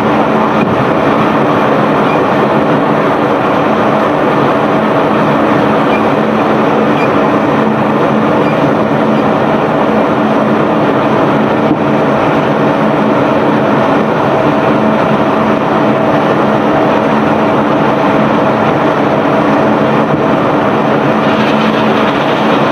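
Self-unloading barge's cargo-discharge machinery running steadily: a constant dense rumble and clatter with a steady hum underneath.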